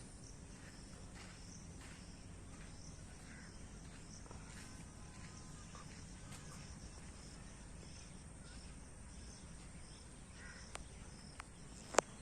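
Outdoor ambience with a steady, high-pitched insect drone, likely crickets, and a sharp click near the end.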